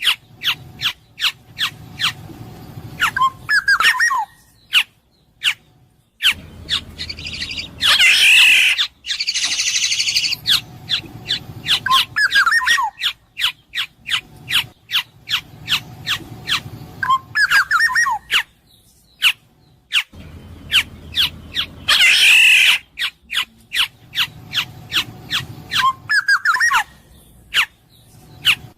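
Black-naped oriole (kepodang emas) calling: short fluty whistled phrases mixed with two loud, harsh nasal calls and many sharp ticks. The same sequence of calls repeats about every 14 seconds.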